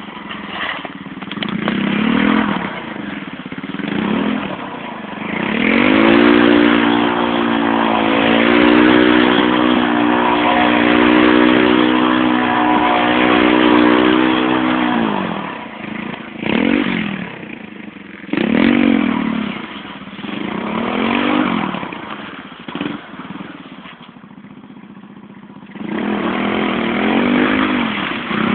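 Dirt bike engine revving up and down repeatedly. It holds high revs for about ten seconds in the middle, then goes through several shorter rises and falls with a quieter lull near the end.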